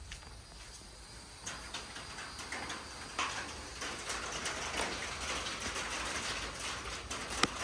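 Rain falling, growing heavier from about a second and a half in, with many sharp drop hits among the steady hiss.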